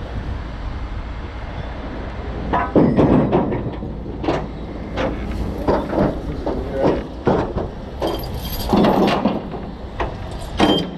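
Heavy steel tow chain and hooks clanking and rattling in a run of sharp metallic knocks, some ringing, over the steady low rumble of a running truck engine.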